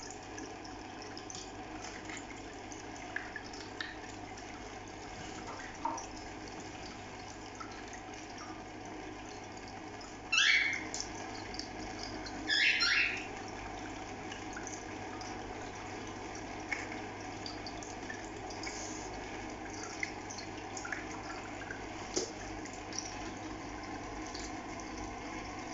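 Cockatiels chirping softly now and then over a steady, water-like running noise, with two loud calls that rise in pitch, one about ten seconds in and another about two seconds later.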